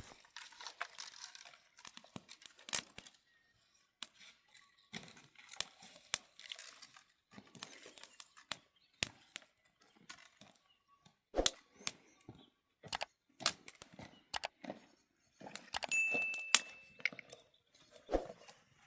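Irregular clicks, knocks and crackles, like things being handled and broken up, with one short, steady high note about three quarters of the way through.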